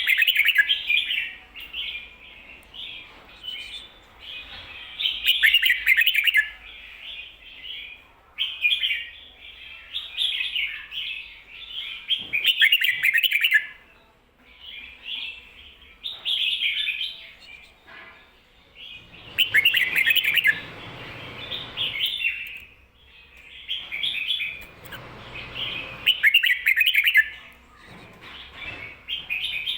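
Red-whiskered bulbul singing, repeating short warbled phrases of its doubled "kho-ta-ra" song, one every two seconds or so, with brief pauses between them. Under two of the phrases in the second half there is a soft rustling noise.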